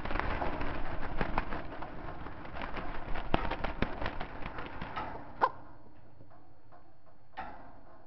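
Java sparrows fluttering and scrambling about in a wire cage: a rush of wingbeats with many sharp clicks against the wire for about five seconds. A single sharp sound follows, then it goes quieter apart from one brief flutter near the end.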